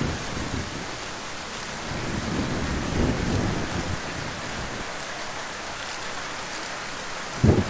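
Heavy rain falling steadily, with a low rumble of thunder that breaks in suddenly near the end.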